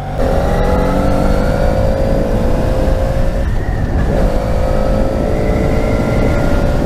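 Yamaha FZ6R's 600cc inline-four engine pulling under acceleration, its pitch climbing steadily, with a brief break for a gear change about three and a half seconds in, then climbing again. A steady low rush of wind noise runs underneath.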